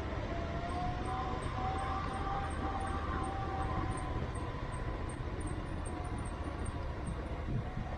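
Motorcycle riding along a road: a steady engine and wind rumble, with a faint whine wavering above it in the first few seconds.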